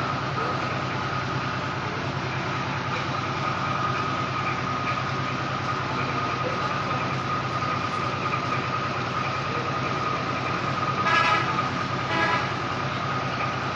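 Steady mechanical running with a low hum and a thin high whine. Two short horn toots come near the end, about a second apart.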